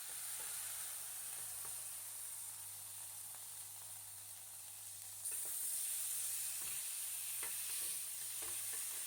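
Marinated chicken pieces sizzling steadily in hot oil in a frying pan. The sizzle gets louder about five seconds in, with a few light knocks after that.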